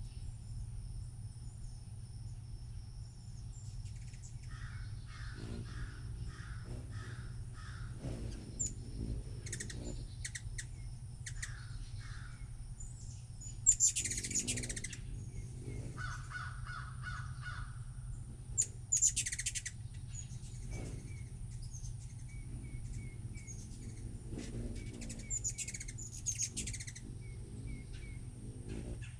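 Wild birds calling outdoors: series of short chirps, with two loud harsh calls about halfway through and again a few seconds later, over a steady low hum.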